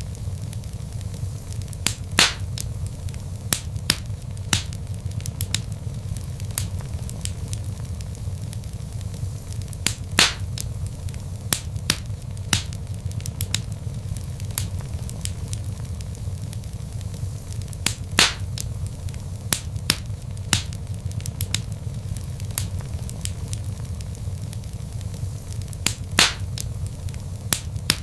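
Wood fire of burning logs crackling, with a steady low rumble under many small sharp pops and a few louder snaps.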